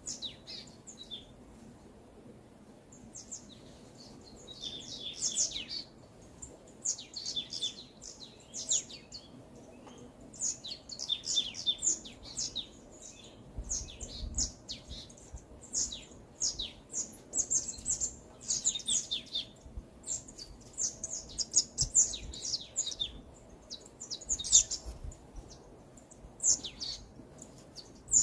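Several songbirds chirping and singing in the forest, quick clusters of short, high, falling notes that come every second or two, over a faint steady background.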